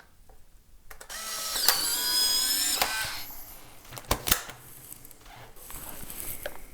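Polaroid instant camera taking a shot: a click, then its motor whirring for about two seconds as it pushes out the print. Two sharp clicks follow about four seconds in.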